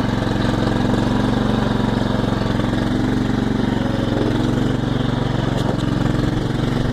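Tractor's small gasoline engine running steadily at an even speed while the tractor is driven.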